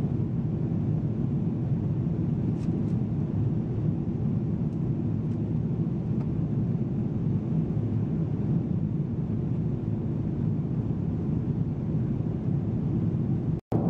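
Steady low rumble of jet engines and airflow heard inside the cabin of a Boeing 777, with a few faint ticks early on and a brief cut-out near the end.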